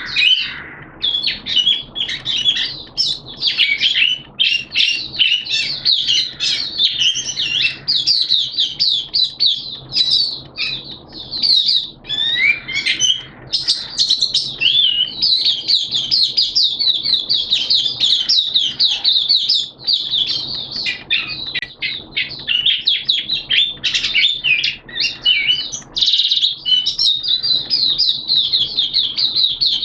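White-eye (mata puteh) singing a long, unbroken run of rapid, high twittering notes.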